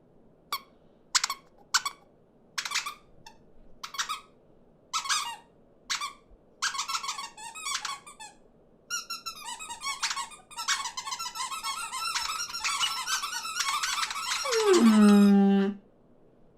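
Cartoon small birds' squeaky chirps and peeps, single calls at first, coming faster until they crowd into a dense, squabbling chatter. Near the end one lower call slides down in pitch.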